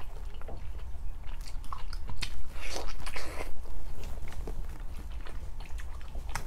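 Close-up biting and chewing of a large piece of glazed, fatty roast meat with skin: a run of irregular mouth noises, loudest in a cluster of bites about two to three and a half seconds in.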